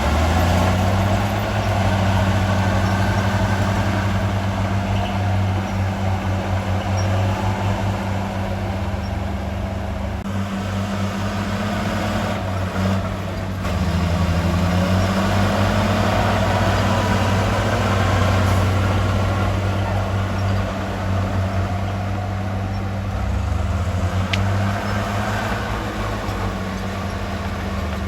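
Heavy construction machine's diesel engine running steadily, its note dropping and picking up again a couple of times.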